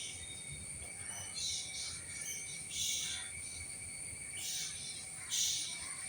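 Cicadas droning in a steady high whine, with four short hissing bursts of insect buzzing.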